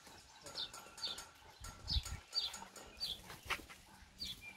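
A bird calling over and over with short, falling chirps, about two a second. A low thump about two seconds in.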